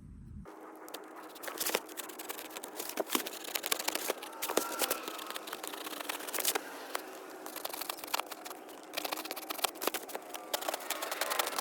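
Cardboard being cut and handled: a quick, irregular run of snips, crackles and rustling.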